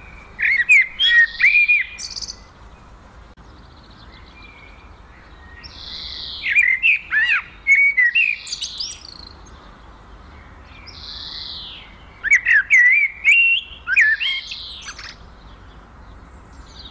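A songbird singing the same phrase three times, about five and a half seconds apart: each phrase opens with a hoarse falling note and breaks into a quick run of loud chirps and whistles.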